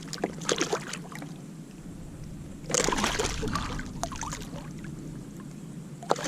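Water splashing and sharp knocks at a kayak as a large hooked fish thrashes while being handled and brought aboard: a few clicks and knocks at first, a louder burst of splashing about three seconds in, then scattered knocks.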